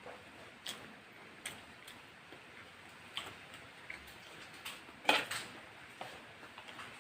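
Close-up eating sounds: irregular clicks and crunches of chewing and mouth sounds, with a louder pair of crunches about five seconds in.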